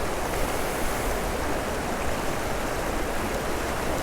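A river running over rapids: a steady rush of flowing water.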